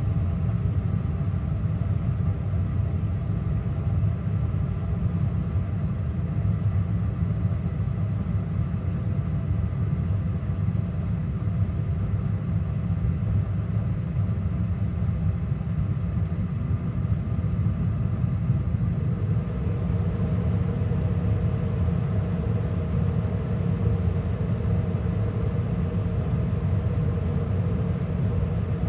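Carrier gas furnace running with its inducer fan and gas burners lit, a steady low rumble. Partway through, the circulating blower starts and adds a steady hum on top.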